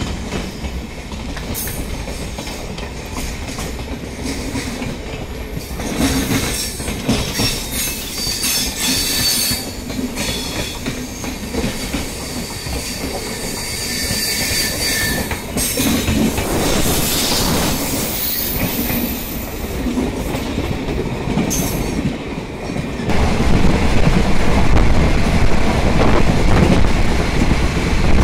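Mahanagari Superfast Express passenger train running on its rails: a steady rumble and clatter of wheels, with thin high wheel squeals in the middle. It grows louder about 23 seconds in.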